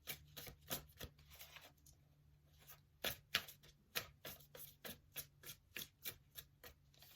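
A deck of tarot cards being shuffled by hand: a run of quick, soft card slaps, a short pause about two seconds in, then steady slaps about two or three a second.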